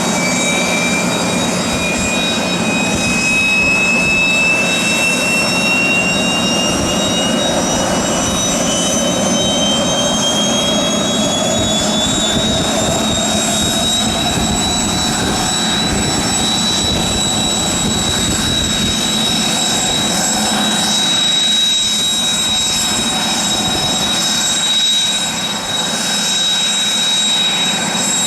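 Kawasaki T-4's IHI F3 turbofan engines whining during engine start: one holds a steady high whine while the other spools up, its whine rising in pitch over about fifteen seconds until it settles level with the first at idle, over a steady jet rush.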